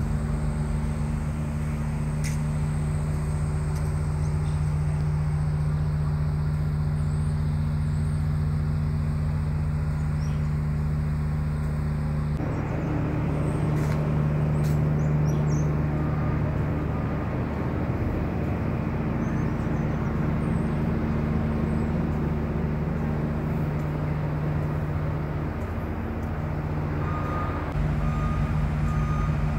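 Steady low hum of a train's engine, with short, evenly spaced high beeps near the end.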